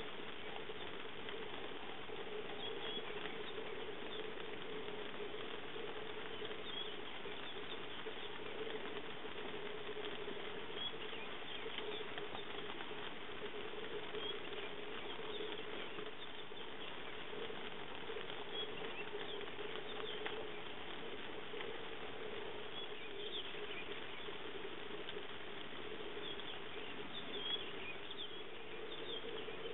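Light rain pattering steadily on grass and leaves, with a steady hum underneath and scattered faint high chirps.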